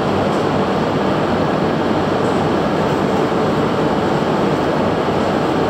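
Steady, even running noise of a Shinkansen train on the line, loud and unchanging.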